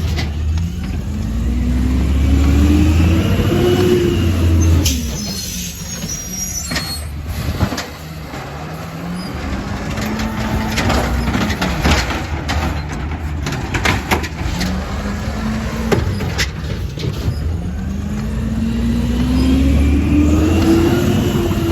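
Compost collection truck's engine revving up and dropping back three times over a heavy low rumble, with several short sharp noises in between.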